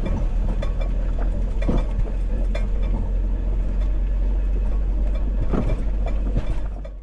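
Camper van on the move: steady low engine and road rumble with scattered rattles and knocks, cutting off suddenly at the end.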